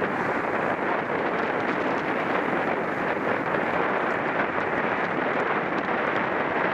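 Steady wind noise rushing over the microphone of a camera mounted on a moving road bicycle, with no change in level.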